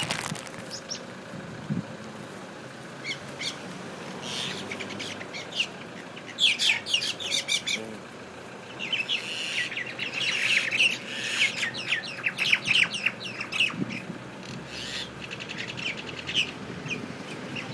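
Common mynas (Indian mynas) calling in rapid, repeated bursts while two of them fight. The calls are sparse at first and busiest from about six seconds in and again through the middle.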